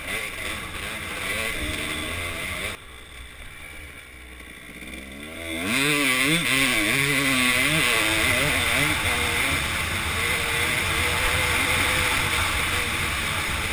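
Kawasaki KDX200 two-stroke single-cylinder trail bike engine riding over rough ground, with wind on the helmet microphone. About three seconds in, the sound drops away suddenly. Near six seconds the engine comes back loud and revs hard, its pitch rising and falling as it pulls up a steep rocky climb, then runs on loud under the wind noise.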